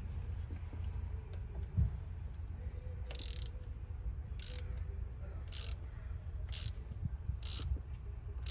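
Hand ratchet clicking in short strokes about once a second, starting about three seconds in, as a bolt is worked loose. A steady low hum runs underneath.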